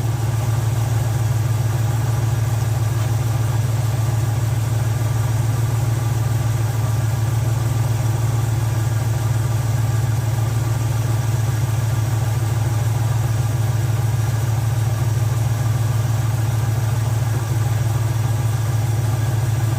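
350 cubic-inch Chevy small-block V8 idling steadily with an even, unchanging beat while its carburetor's idle mixture screws are balanced, the engine pulling a steady 20 inches of vacuum.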